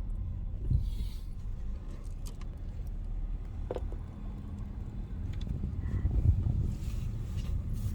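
Steady low rumble of a car driving, with a few faint clicks and ticks.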